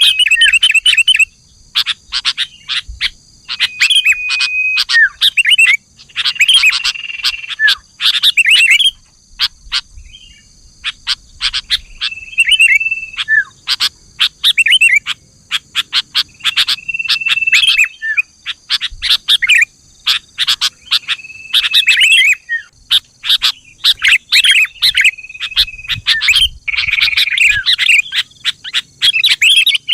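Sooty-headed bulbul (kutilang) singing a lure song: phrases every few seconds, each a short held whistled note followed by a rapid run of sharp chattering notes, over a steady high-pitched whine.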